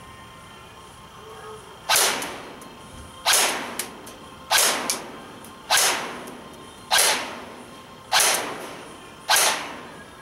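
King Arms M4A1 airsoft rifle firing single shots at a dummy gas mask's lens, seven shots about one every 1.2 seconds, starting about two seconds in. Each shot is a sharp crack that dies away quickly, some followed by a fainter tick.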